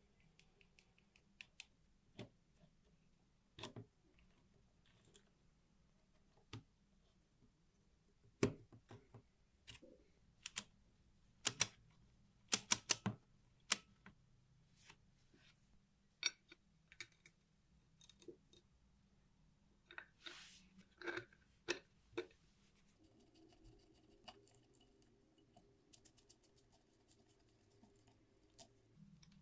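Scattered clicks and light knocks of small metal calculator parts being handled and set down on a work surface, loudest in a cluster in the middle. A steady low buzz runs for several seconds near the end.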